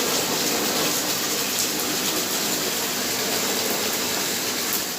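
Collected rainwater pouring steadily into a container as it fills.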